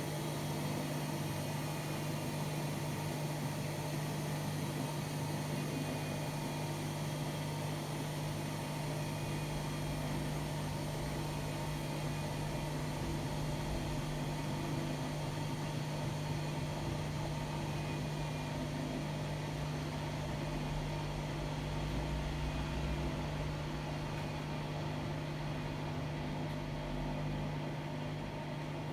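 Hotpoint-Ariston AQD972F washer-dryer running with a steady hum: one strong low tone with fainter higher tones over it, and a lower rumble that pulses evenly.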